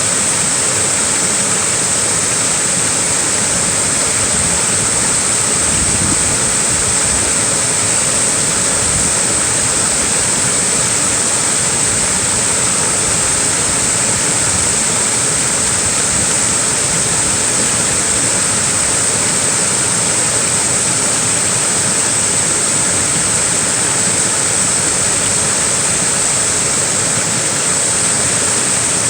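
Small waterfall: falling water giving a steady, unbroken rushing hiss, brightest in the high range.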